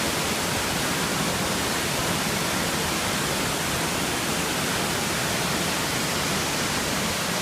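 Waterfall rushing, a steady, even roar of falling water without a break.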